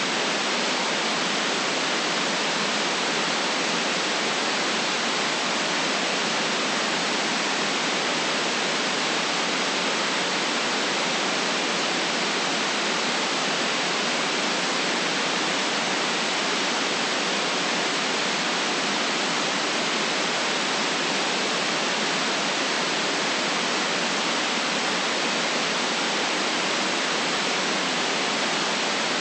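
Steady hiss of white noise, even and unchanging, with no bass.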